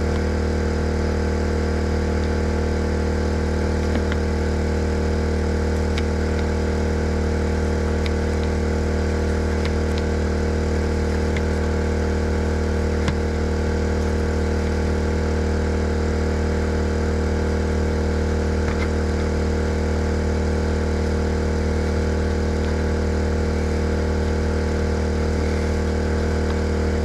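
Portable generator running steadily, a constant engine hum, with a few faint clicks over it.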